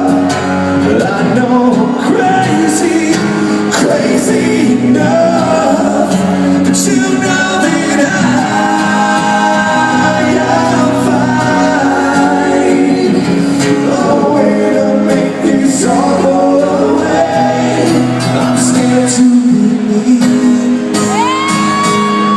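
Rock song with a male lead singer over a full band. Near the end, a high note slides up and is held.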